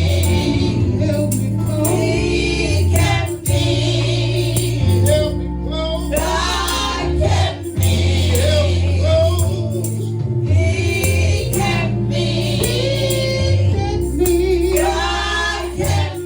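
Live gospel music from a church praise team: singers over a band, with sustained bass notes and a regular percussion beat.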